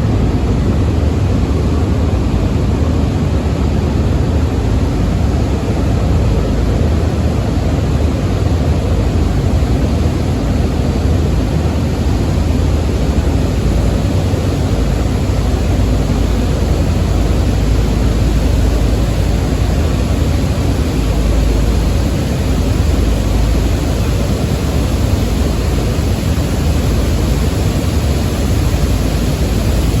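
Loud, steady machinery noise aboard a lake freighter during self-unloading, an even rumbling hum with no breaks or distinct events.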